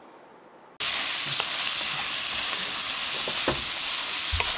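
Triangle-cut tofu frying in a hot pan: a loud, steady sizzle that cuts in suddenly about a second in, with a few light clicks as the pieces are stirred and tossed.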